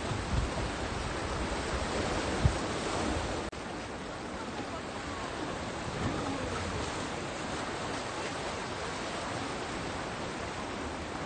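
Steady wash of sea surf, with wind knocking on the microphone in low thumps during the first few seconds. The sound drops abruptly about three and a half seconds in and carries on more softly.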